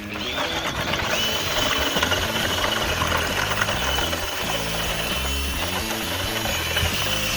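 A motor-driven machine running with a steady high whine, over background music.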